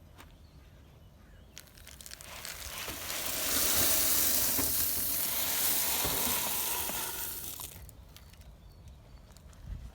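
Crushed grain being poured out in a steady rustling rush that builds, runs for several seconds and tails off.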